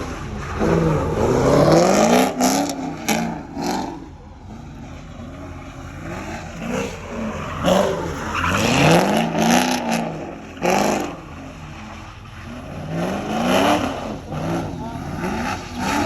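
Car engine revved hard over and over, each rev climbing and falling back within a second or two.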